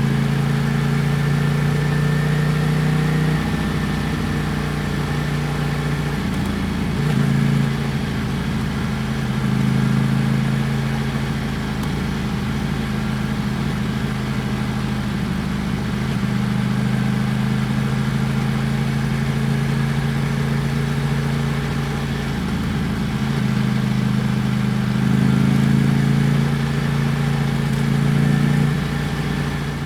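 Ducati Panigale V4 S's 1103 cc V4 engine running at low, fairly steady revs. Its pitch shifts a few times, with short dips and rises as the throttle changes.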